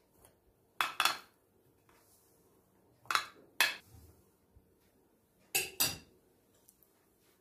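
Dishes and cutlery being handled in a kitchen: three pairs of short clinks and clatters, about a second in, around three seconds and near six seconds.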